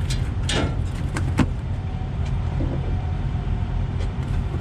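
Steady low rumble of idling diesel trucks, with a few sharp knocks and clanks between about half a second and a second and a half in as the new truck radiator is handled.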